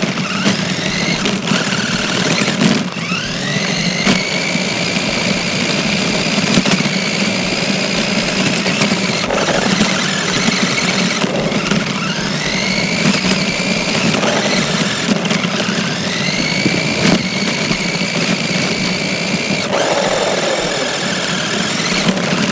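Battery-powered RC car's electric motor whining, its pitch rising and then holding each time the throttle is opened, several times over, with a steady rough rattle of the car driving, heard up close from a phone taped onto the car.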